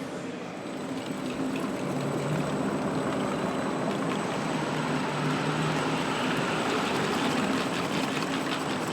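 Car assembly hall ambience: a steady hiss of machinery with a low hum and a few faint clicks, a little louder from about a second in.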